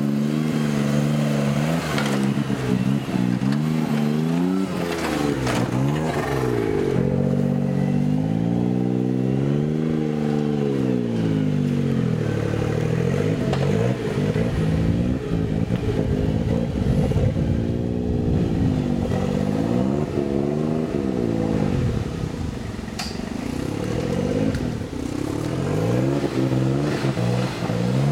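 Suzuki Jimny trial vehicle's engine revving up and down over and over as it crawls and climbs an off-road section under load, the pitch rising and falling every few seconds.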